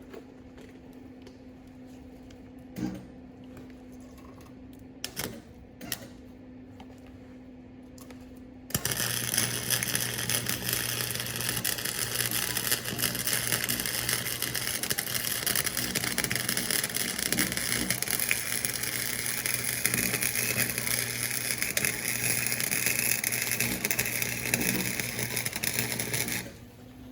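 Electric arc welder laying a bead on a steel exhaust pipe: a loud, steady sizzle that starts about nine seconds in and cuts off suddenly near the end. Before it, a low steady hum and a few short clicks.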